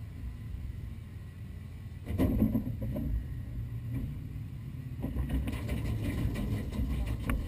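V8 engine of a mud-racing Jeep idling with a steady low rumble, heard from inside the cab. It gets louder about two seconds in and a little fuller again near the end.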